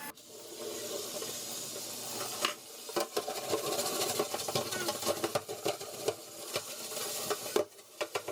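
Steady hiss with many small, irregular clicks and clinks, like utensils or objects being handled.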